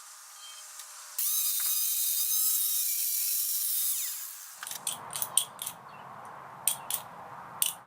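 Workshop tool noise: about three seconds of loud, high hissing, then a run of sharp, irregular clicks.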